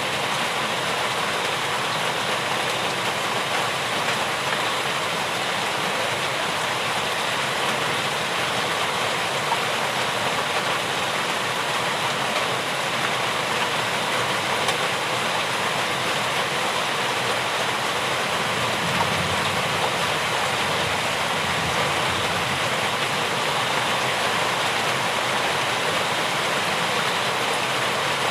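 Steady rain falling, an even hiss that holds constant throughout, with a brief low rumble underneath about two-thirds of the way through.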